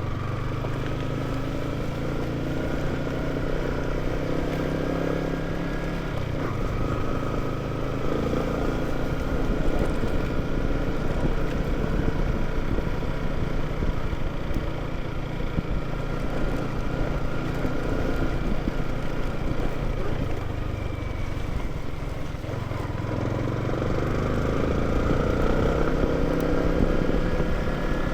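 Small motorcycle engine running while riding, its pitch rising and falling as it speeds up and eases off, over a constant low rumble.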